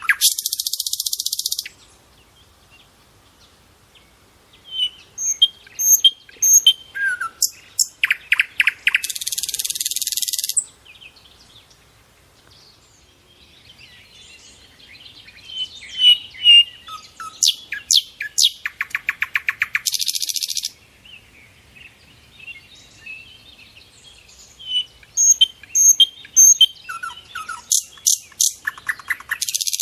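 Birds chirping and calling: short high chirps, rapid rattling trills and a harsh, hissing buzz about a second and a half long. The same sequence repeats about every ten seconds.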